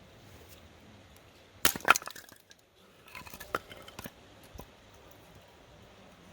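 Hard objects knocking and clattering together: a sharp, loud clatter about a second and a half in, then a run of lighter clinks and knocks a second later.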